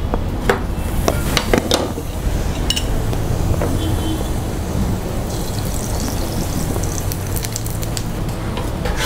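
Mooli paratha frying in oil on a hot non-stick tawa, a steady sizzle. A few sharp clicks of utensils against the pan in the first two seconds.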